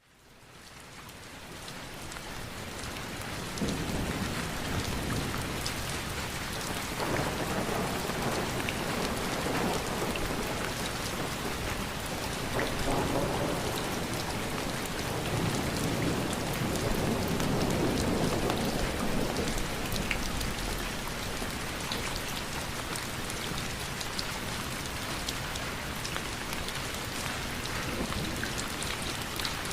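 Steady rain falling, fading in over the first few seconds, with low rumbles of thunder swelling and fading several times.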